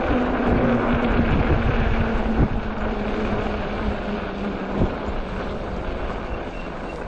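Fat-tire e-bike rolling through slush, a steady rumble and hiss of tyres and wind on the microphone. A steady hum underneath sinks a little in pitch and fades out about five seconds in, and there are two light knocks, at about two and a half and five seconds.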